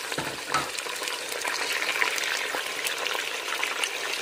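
Chicken pieces and green chillies frying in hot oil with browned onions: a steady sizzle with fine crackling throughout, the chicken being browned as the first stage of a chicken pulao.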